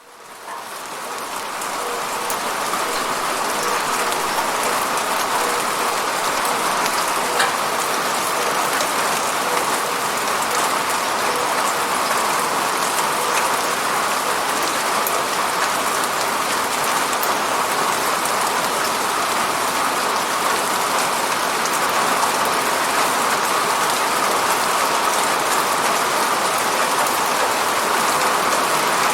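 Steady rain falling, with scattered individual drop hits; it fades in from silence over the first couple of seconds.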